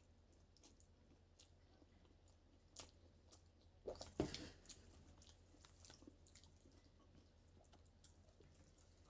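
Close-up chewing and wet mouth sounds of someone eating, with small clicks throughout and a louder crunching bite about four seconds in.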